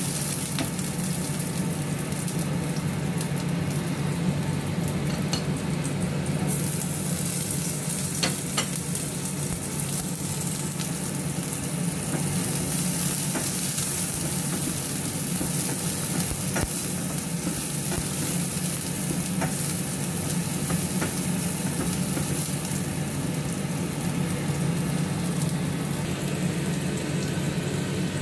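Garlic, ginger and shallots sizzling steadily in hot oil in a wok, stirred with a spatula that clicks against the pan now and then, over a steady low hum.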